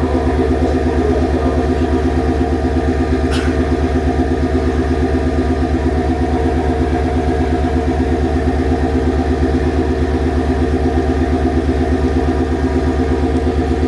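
Diesel engine of a KiHa 40 railcar running steadily, with one sharp click about three and a half seconds in.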